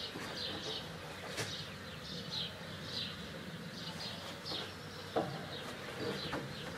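Small birds chirping, short falling chirps repeating a couple of times a second over a quiet outdoor background, with a single sharp knock about five seconds in.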